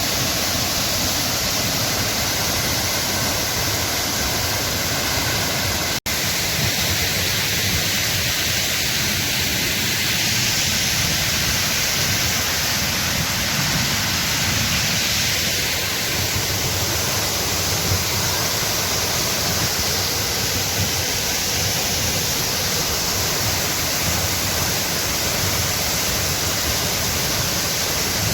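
Steady rushing noise of the Burkhan-Bulak waterfall, with a brief break about six seconds in.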